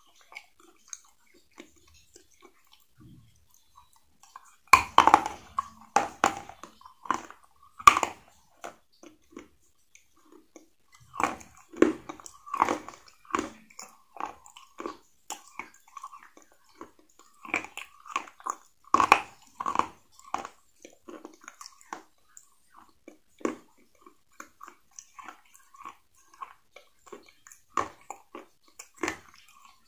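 Biting into and chewing KFC fried chicken, the crispy coating crunching in irregular bursts. The loudest crunches come about five, eight, twelve and nineteen seconds in, with softer chewing between them.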